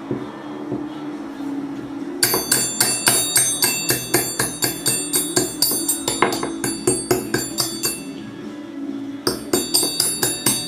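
A hammer striking metal again and again at about four blows a second, each blow ringing like a bell. The strikes pause briefly near the end and then start again.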